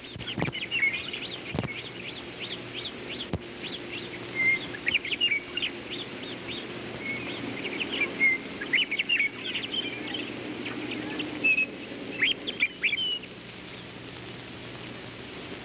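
Birds chirping: many short, quick calls repeating throughout, over a steady low hum, with a few sharp clicks in the first few seconds.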